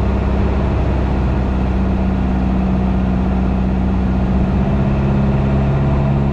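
Piper PA-28 light aircraft's piston engine and propeller droning steadily on final approach, with a slight shift in its pitch partway through.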